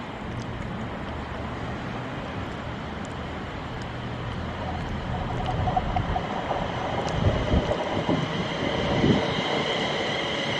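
Train approaching along the line, its rumble growing louder through the second half, with a high steady rail ringing building near the end.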